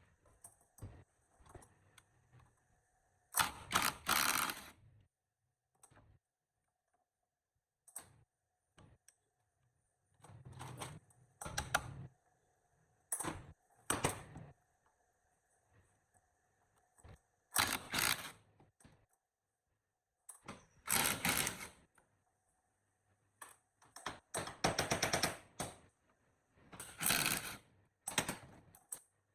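Hand tool work: about a dozen short bursts of rapid clicking and rasping, each lasting under two seconds, separated by quiet gaps.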